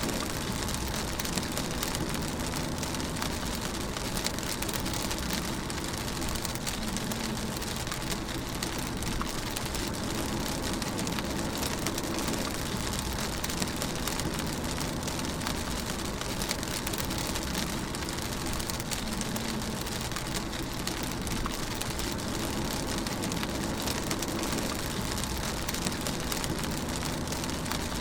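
Rain pattering steadily on a moving car's roof and windscreen, heard from inside the cabin, over the low hum of the car and its tyres on the wet road.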